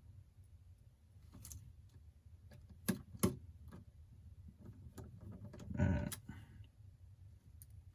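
Small, sharp clicks and taps of repair tools and parts during iPhone 8 home-button reassembly: two loud clicks about three seconds in, then a short louder rattle about six seconds in, over a low hum.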